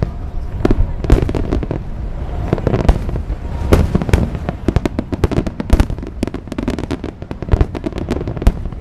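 Fireworks display: a dense, irregular barrage of booming shell bursts and sharp crackling reports, several per second, over a low rumble.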